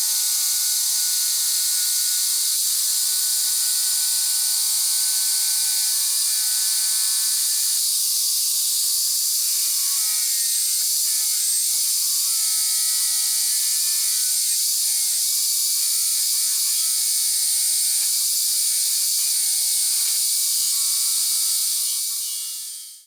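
An electric power tool running without a break: a loud high hiss with a motor whine whose pitch dips and wavers around the middle, as if under load. It fades out just before the end.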